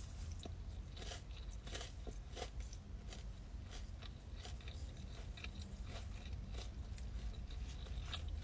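A person biting and chewing crunchy food close to the microphone: a quiet run of many small, irregular crunches.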